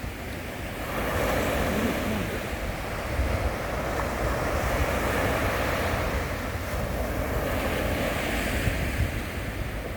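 Sea surf breaking and washing on the shore in a steady, surging rush that swells about a second in, with wind rumbling on the microphone.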